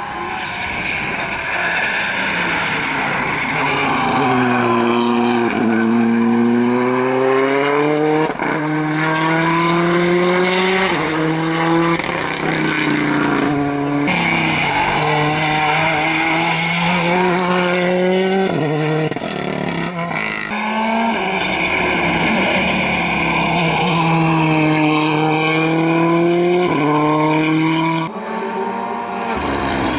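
Rally cars at full attack, engines revving hard and dropping away through quick gear changes, with some tyre squeal. Several cars or passes follow one another in sudden cuts.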